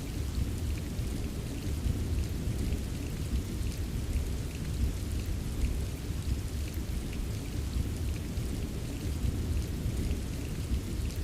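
Steady rain with many small drops tapping, over a constant deep low rumble of distant thunder. No single thunderclap stands out.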